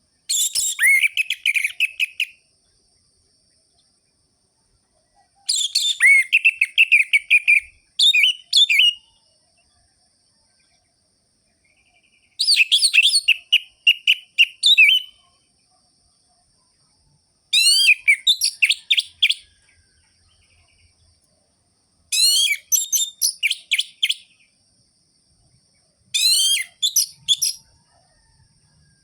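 Orange-headed thrush (anis merah) singing vigorously: about seven short bursts of rapid, high twittering and rolling notes. Each burst lasts one to two seconds, with pauses of a few seconds between them.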